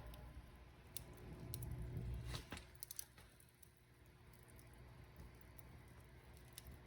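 Wood fire crackling softly, with scattered sharp pops over a low rumble that fades about two and a half seconds in.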